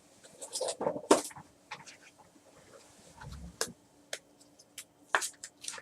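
Trading cards and plastic card sleeves being handled on a table: rustling, scattered sharp clicks, and a soft low thump about three seconds in.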